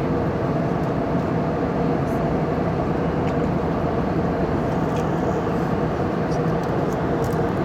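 Steady cabin noise of a jet airliner in flight, the engines and rushing air heard from inside the cabin as an even, unbroken roar with a faint steady hum in it.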